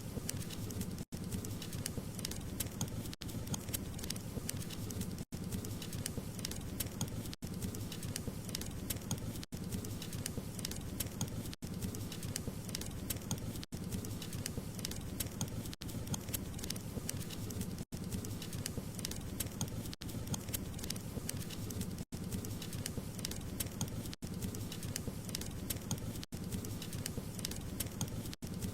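Wood fire crackling, a dense steady stream of small pops and snaps over a low rumble of burning logs, broken by brief gaps about every two seconds.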